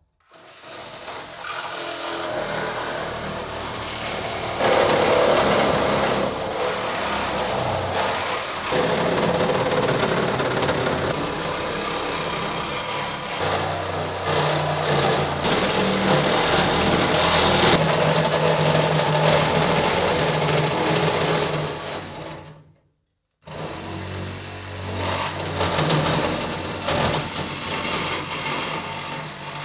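A metalworking power tool running steadily on sheet steel, its tone shifting as it works. It breaks off abruptly about 23 seconds in and starts again straight away.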